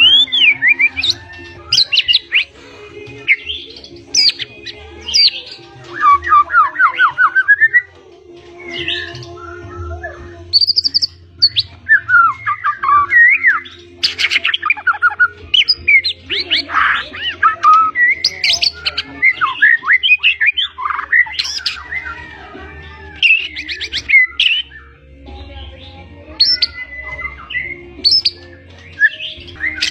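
Pied (blorok) white-rumped shama (murai batu) singing a long, varied song of clear whistles, fast trills and rapid chattering sweeps in quick bursts with short pauses.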